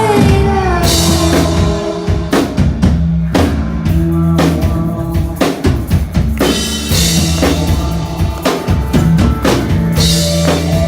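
Live rock band playing an instrumental, drum-led passage: a loud drum kit with repeated bass drum and snare hits and cymbal wash over sustained bass, with no singing.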